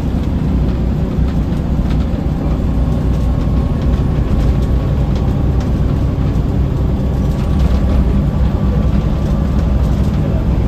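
Scania L94UB bus heard from inside the cabin: a steady low rumble from the engine and drivetrain, with a faint steady whine through the middle and a few light rattles.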